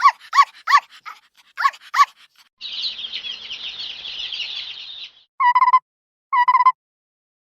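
Small dog yipping: five short, high barks in the first two seconds. Then comes about two and a half seconds of fast, high chattering, and two short pulsed calls near the end.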